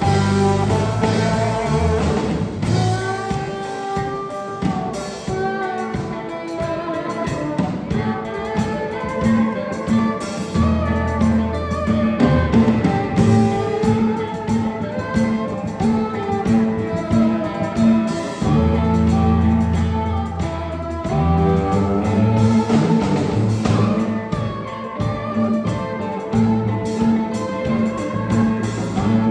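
A live sacred steel gospel band playing: the steel guitar's sliding lead over bass and a drum kit keeping a steady beat.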